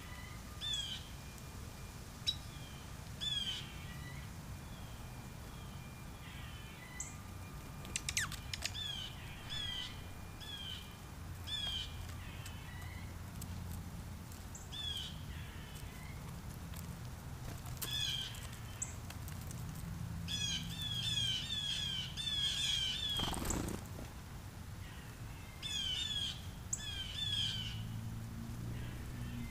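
Wild songbirds chirping with short, repeated calls, which come thick and fast for a few seconds about two-thirds of the way through. A couple of sharp clicks stand out, over a steady low outdoor rumble.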